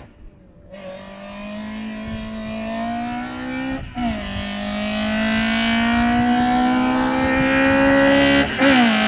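VW Golf Mk1's ABF 2.0 16-valve four-cylinder on individual throttle bodies accelerating hard. The engine note climbs for about three seconds, drops at a gear change about four seconds in, then climbs more slowly through the next gear until another shift near the end.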